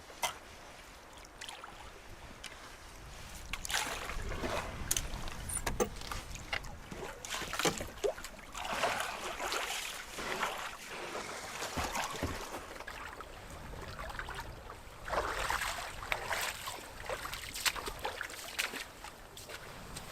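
Canoe paddles pulling through choppy lake water in uneven strokes, each with a splash and slosh, over a low wind rumble.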